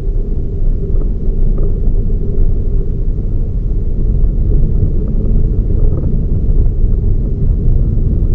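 Toyota Raize GR small SUV on the move: a steady low rumble of engine and road noise, with a faint steady hum on top.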